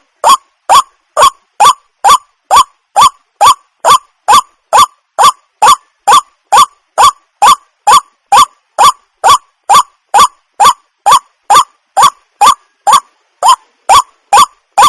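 A waterhen calling over and over, short harsh calls repeated about twice a second at a very even pace.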